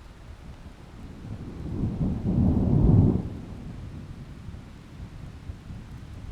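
A thunderstorm with steady heavy rain and a roll of thunder that swells about a second in, peaks around three seconds and dies away.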